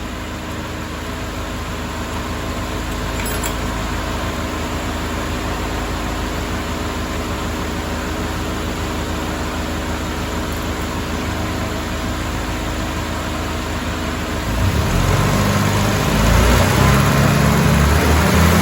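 Mercedes-Benz W124 230E's four-cylinder engine running with a steady low drone; about fifteen seconds in, the engine note rises and gets louder as it picks up revs.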